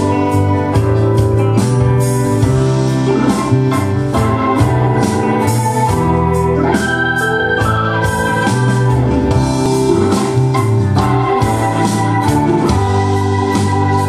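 Music with sustained organ chords over a regular drum beat, played back through a Harman Kardon 730 Twin Powered receiver driving Canton Ergo loudspeakers.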